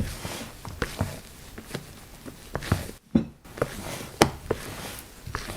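Kitchen utensils being handled: light, irregular taps and scrapes of a spatula and mixing bowl, with a short pause about three seconds in.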